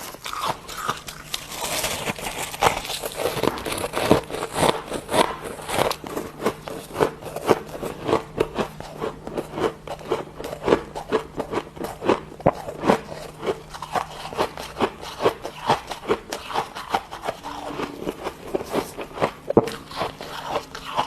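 Freezer frost being chewed close to the microphone: a steady run of squeaky, crunchy bites, several a second. A faint steady low hum sits underneath.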